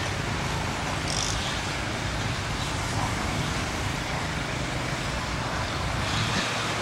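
Steady low rumble of a diesel train engine during shunting, under a constant outdoor noise, with brief hissy sounds about a second in and near the end.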